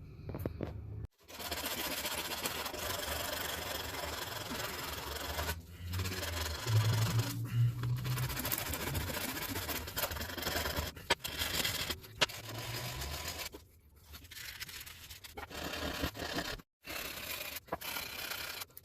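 Continuous scraping and rubbing from abrasive hand work on a tool, in several short takes that cut off abruptly, with a low hum about six to nine seconds in.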